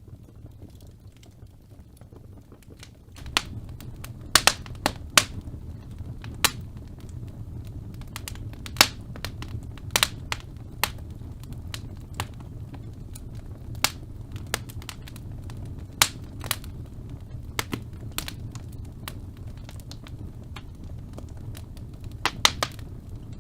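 Fireplace fire crackling, with sharp pops at irregular intervals over a steady low rumble of flames that grows louder about three seconds in.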